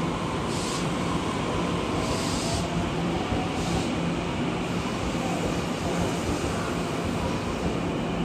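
Taroko Express electric multiple unit pulling out of the station past the platform: a steady rush and rumble of wheels on rail with a faint whine over it, and a few brief hisses in the first four seconds.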